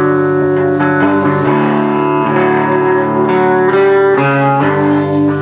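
Live guitar playing the instrumental lead-in to a song: full chords ring out and change about every second, before the vocals come in.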